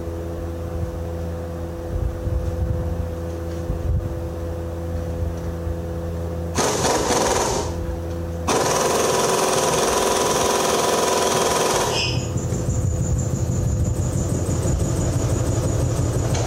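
Air impact wrench hammering on bolts in two bursts, a short one about six and a half seconds in and a longer one of about three and a half seconds shortly after, while a steady engine or compressor hum runs underneath.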